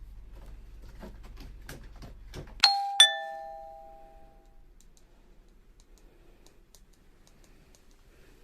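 Two-note doorbell chime: a higher note then a lower one in quick succession, each ringing out for over a second. A few faint light taps come before it.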